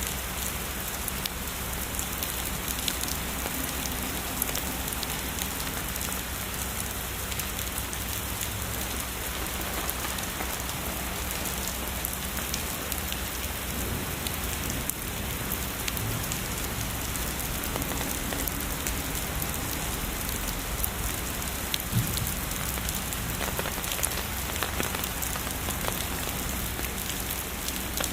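Steady heavy rain falling on a surface, a dense even hiss with many distinct drops pattering through it.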